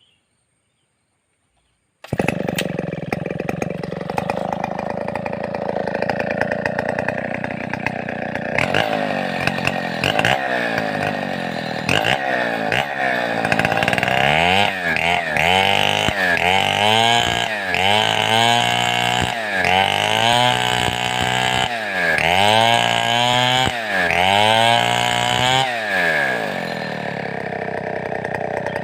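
Large two-stroke chainsaw, starting suddenly about two seconds in and running at high revs. From about a third of the way through, the engine speed repeatedly sags and climbs back, about every one and a half to two seconds, as the saw is worked.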